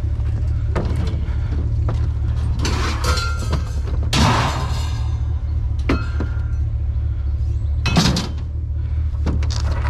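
Junk being handled and tossed: a series of knocks and thuds, the loudest about four seconds in with a rattling crash trailing it and another near eight seconds, over the steady low rumble of an idling vehicle engine.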